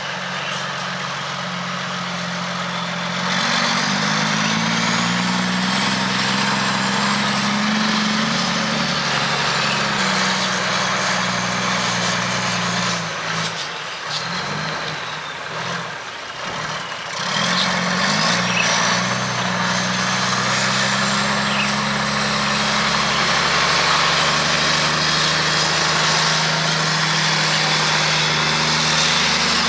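Heavy diesel engine running under load: the revs climb about three seconds in, drop away and falter around the middle, then build again and hold steady, with a faint high whine rising and falling with the engine speed.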